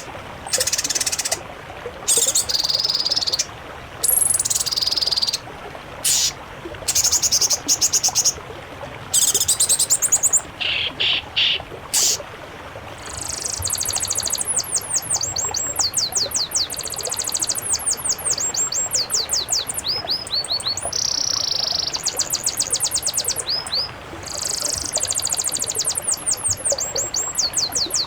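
Songbird song from a mixed-species masteran recording: short, high-pitched, fast phrases separated by brief pauses, then, from about 13 seconds in, a near-continuous stream of rapid down-slurred chips and trills.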